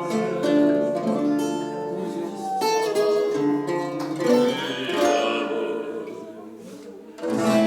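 Instrumental music with a guitar playing plucked notes over long held tones; the playing fades around six to seven seconds in, then a louder chord comes in near the end.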